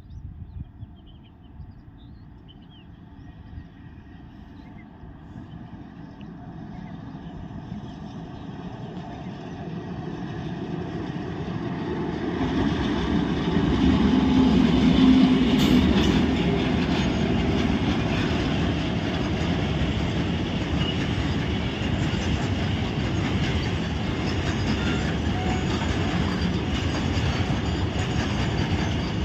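Loaded freight train of capsule wagons hauled by two locomotives, approaching and growing steadily louder for about twelve seconds. It is loudest as it comes level, then the wagons keep rolling past with a steady rail noise.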